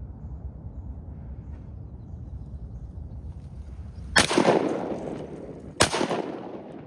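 Two shotgun shots about a second and a half apart at wood ducks, each echoing and fading away. A low rumble runs under the first four seconds and stops with the first shot.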